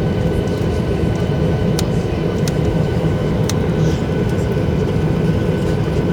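Boeing 737-800 airliner's CFM56 engines running steadily: a dense low rumble with a faint constant whine above it and a few small clicks.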